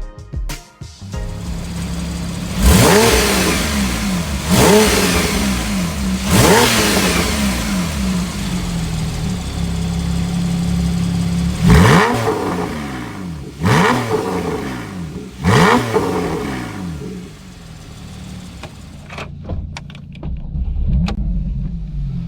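Porsche 911 Carrera S (991) 3.8-litre flat-six through an Armytrix aftermarket exhaust, idling and revved sharply six times in two sets of three, each rev shooting up and falling back to idle. A few crackles sound near the end as it settles to a quieter idle.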